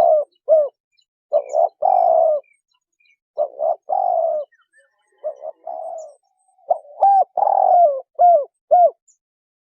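Spotted dove cooing: about five phrases of short and drawn-out low coos with brief pauses between them, stopping shortly before the end.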